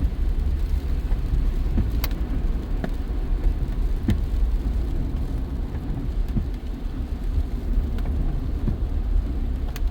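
A car driving, with a steady low rumble of road and tyre noise and a few faint ticks.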